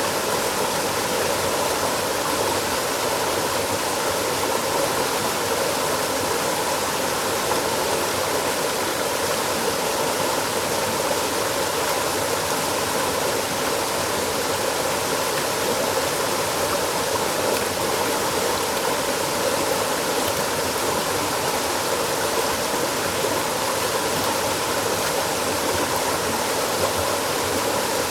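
Steady rushing of flowing water, an even noise that holds at the same level throughout.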